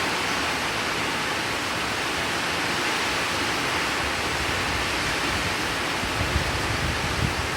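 Heavy rain falling steadily, a dense even hiss. Near the end, irregular low rumbling gusts come in under it.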